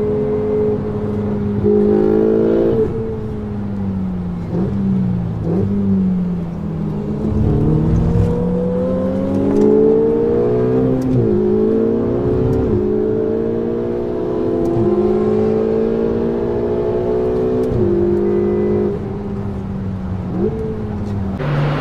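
Ferrari 488 GTB's twin-turbo V8 with a Capristo exhaust, heard from inside the car, driven hard through the gears. The engine note keeps climbing and then drops suddenly at each gear change, with stretches where it falls away off the throttle.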